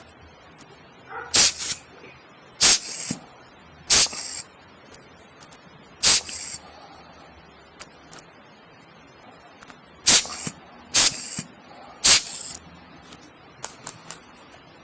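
Seven short puffs of air from an air blower, each a brief hiss, blowing on a freshly soldered joint to cool it so the heat doesn't burn nearby parts.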